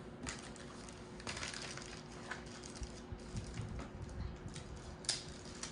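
Handling noise from working on a motorcycle helmet and its intercom parts: scattered light clicks, taps and rustles, with a busier stretch of rustling early on and one sharper click about five seconds in.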